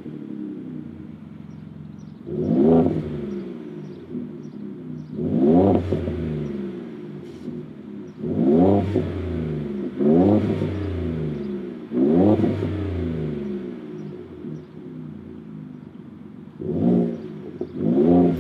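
Ford F-150 3.5L EcoBoost twin-turbo V6 exhaust, idling and blipped about seven times. Each quick rev rises sharply in pitch and falls back to idle.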